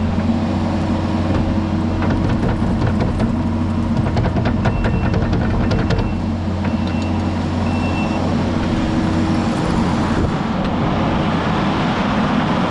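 Diesel engine of heavy earthmoving equipment running steadily, with a backup alarm beeping on and off and bursts of metallic clanking in the first half. The engine note drops a little about three quarters of the way through.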